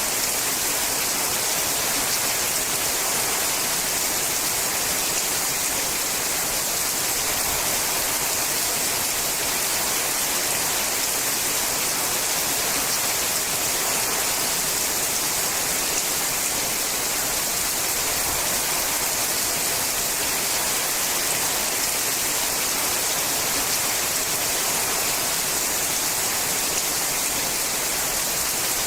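Rain falling steadily on a sheet-metal roof: an even, constant hiss with no individual drops standing out and no let-up.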